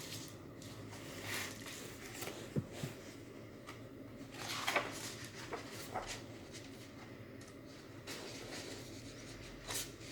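A picture book being handled and its pages turned: a few faint paper rustles and soft bumps over quiet room hum.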